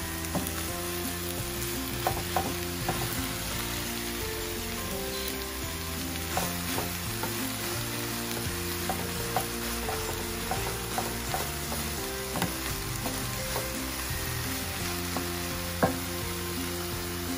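Cauliflower rice with diced peppers and egg sizzling as it fries in a nonstick skillet, stirred and scraped with a wooden spatula. There is a steady hiss with scattered sharp clicks from the spatula on the pan, the loudest near the end.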